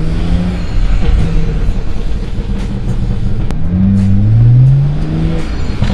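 BMW 335i's turbocharged inline-six, heard from inside the cabin, revving up twice with a rising note. Between the revs, on lift-off, the exhaust crackles and pops: the pops of a freshly flashed stage 2 MHD tune.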